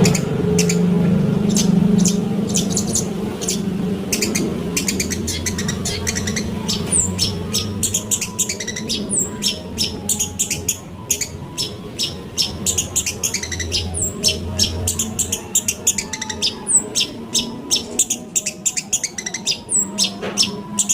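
Long-tailed shrike (pentet) chattering: a long run of rapid, harsh high notes, broken now and then by a short high whistle that slides downward, all over a steady low hum.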